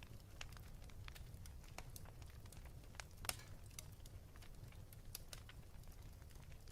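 Wood fire crackling in a fireplace: faint, irregular small pops, with one louder pop a little over three seconds in, over a low steady rumble.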